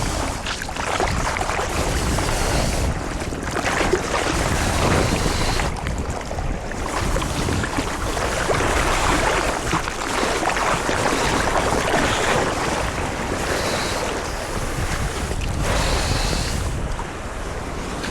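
Sea water splashing and rushing close to the microphone, with wind buffeting it, as a surfer moves through the shallow surf. The noise swells and eases every few seconds.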